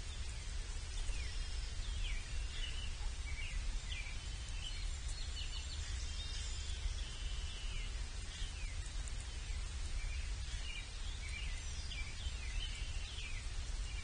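Outdoor bird-camera sound: many short, high bird chirps, several sliding downward, over a steady low rumble.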